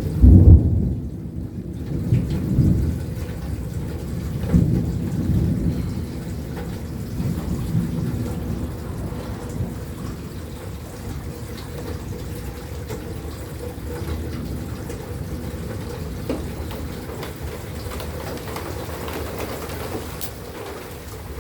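Thunder rumbling over torrential rain: a loud low rumble in the first second or so, weaker rolling rumbles over the next several seconds, then a steady downpour.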